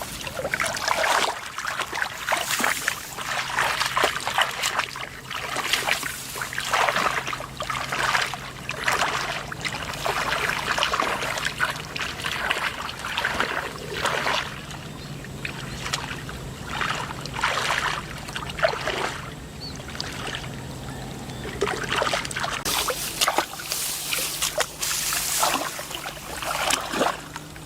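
Shallow floodwater splashing and sloshing in irregular bursts, as it is stirred by hands or feet, over a steady low hum.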